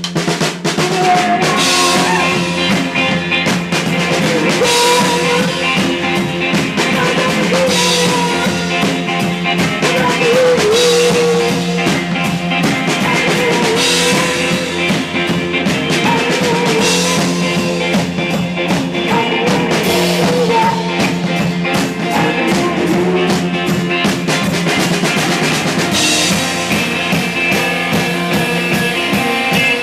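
Rock band playing live: electric guitar over a drum kit, with cymbal crashes about every three seconds.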